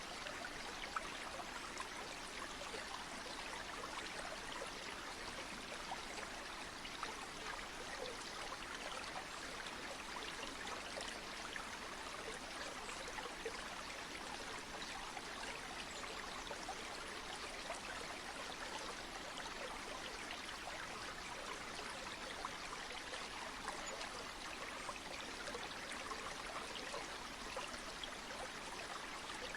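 Flowing stream or river: a steady, even rush of water with a fine, flickering splash texture, used as continuous background noise.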